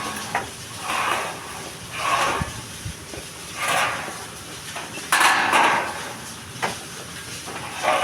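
Rhythmic scraping strokes, roughly one a second, with a few short knocks between them.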